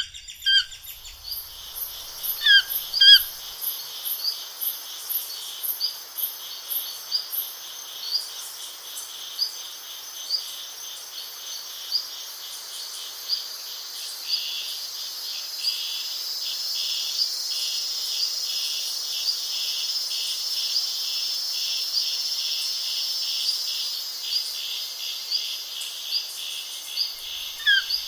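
Birds chirping over a steady insect chorus: short rising chirps repeat about once a second above a continuous high buzzing trill, which grows a little louder in the middle.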